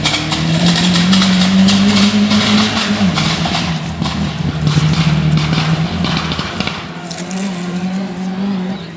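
Off-road race car engine running hard, its pitch climbing for the first three seconds, then dropping and holding steady.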